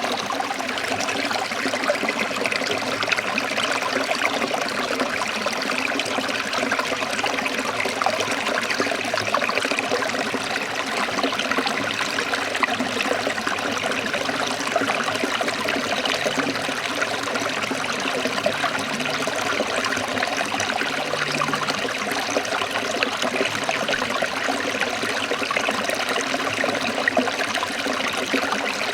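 Forest stream trickling and splashing over rocks in a steady, unbroken rush of water.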